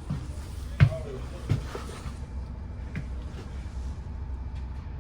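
Low steady rumble of a Scania OmniCity double-decker bus's engine, with a sharp knock a little under a second in and two lighter knocks after it.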